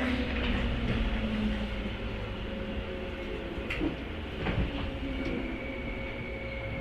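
Running sound inside a 103 series electric motor car: the MT55 traction motors' hum falling slowly in pitch as the train slows, wheels knocking twice over rail joints, and a high steady squeal setting in about five seconds in.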